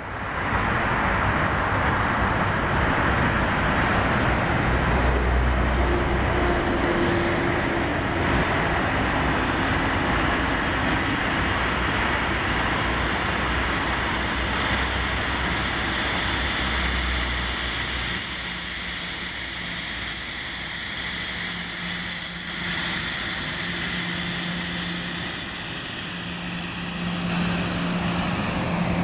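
Boeing 737 airliner's jet engines in a loud, steady rumble as it departs, easing off past the halfway mark. A steady low hum builds near the end.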